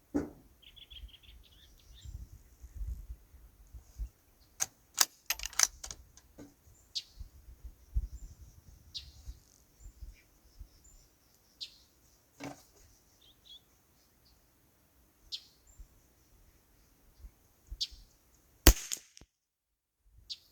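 .22 LR rifle firing single shots every second or two, with a quick run of several shots about five seconds in and the loudest crack near the end. A bird chirps briefly about a second in.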